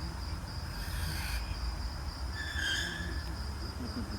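Recorded cricket song played from a cassette recorder: a steady high trill, used as a lure for an owl hunting it out.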